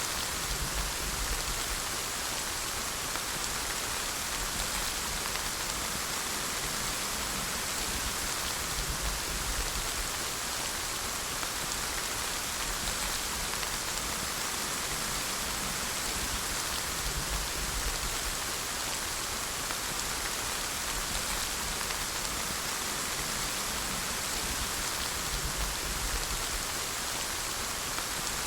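Steady rainfall, an even hiss of rain falling on a surface with no distinct drops or changes.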